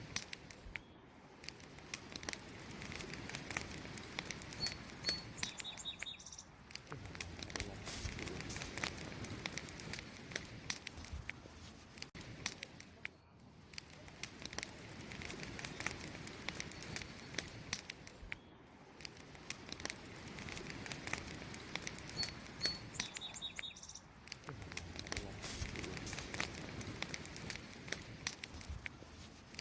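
Wood campfire crackling, with many sharp pops and snaps over a soft steady hiss of burning, rising and falling in level every few seconds. A faint short high chirp sounds twice.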